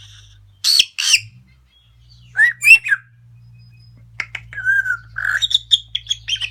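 Pet parrot calling: two loud squawks about a second in, two more calls a little later, then a quick run of chattering chirps and whistles toward the end.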